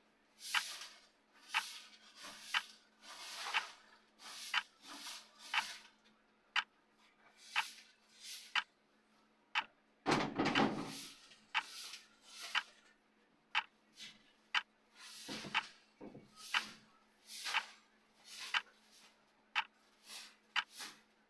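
Clock-style ticking of a countdown timer: a sharp tick about once a second, with softer swishing sounds between the ticks and a faint hum underneath. About ten seconds in, a louder, deeper whoosh sounds.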